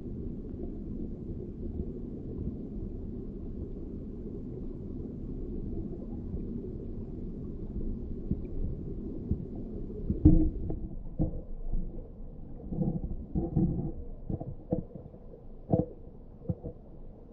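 Muffled, low rushing of river water, with a run of thumps and knocks from about ten seconds in, the first one the loudest.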